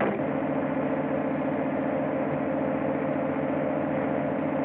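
Car engine running steadily at speed, an early sound-film effect with old optical-track hiss. There is a sharp splice click near the end.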